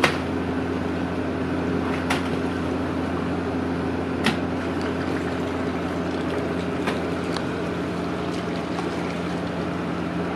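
A motor running steadily with a low, even drone, broken by a few sharp knocks about two seconds apart.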